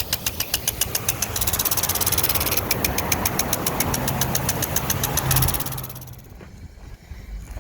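Impact sprinkler running, its hammer arm snapping against the water stream at about eight ticks a second over the hiss of the spray. It stops about six seconds in.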